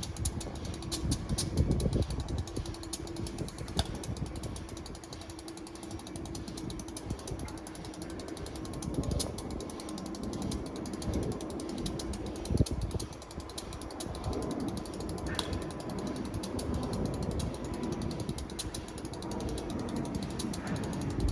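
Class 59 diesel locomotive's EMD two-stroke V16 engine idling with a steady clattering rumble.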